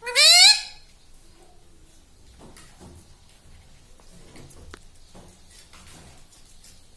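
Indian ringneck parrot giving one loud, rising screech right at the start, followed by faint small clicks and rustles.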